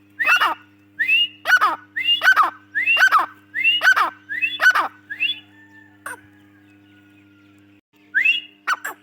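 A francolin (teetar), the female by the title, calling: a series of short, harsh descending notes about every 0.6 s that breaks off about five seconds in, then resumes with a few notes near the end.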